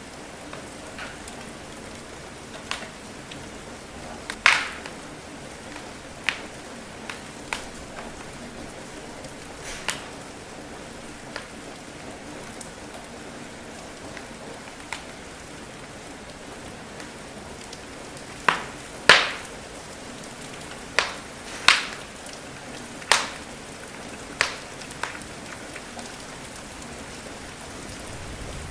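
Steady rain patter with a wood fire crackling in a fireplace: scattered sharp pops, with a run of louder ones in the second half.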